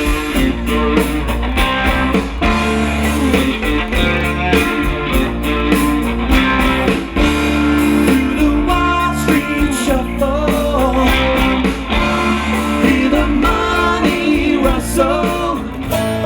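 Live rock band playing, with electric guitars, bass and drums, and a melody line moving over sustained chords.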